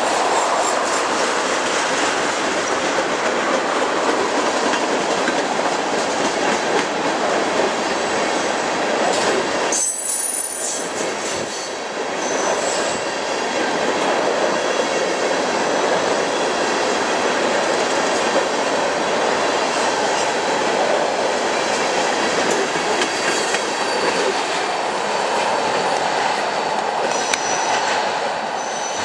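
Freight train tank cars rolling past close by: a steady rumble and rattle of steel wheels on the rails, with brief high wheel squeals now and then.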